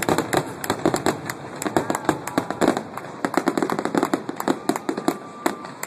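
Fireworks display going off in quick succession, a dense run of crackling pops and bangs several times a second.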